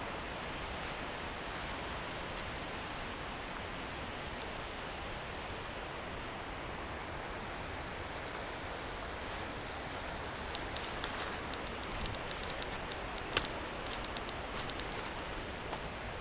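Steady rushing outdoor background noise, with a run of light clicks and taps over the last five seconds or so and one sharper tap among them.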